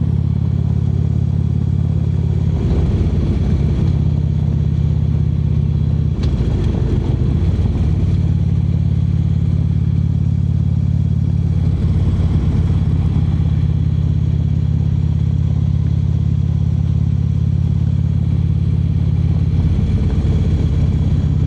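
Harley-Davidson V-twin motorcycle engine running steadily while riding, heard from the bike with a low, even rumble.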